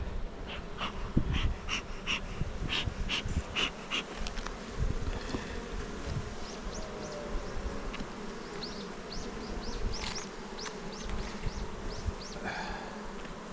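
Many honeybees buzzing around an opened hive.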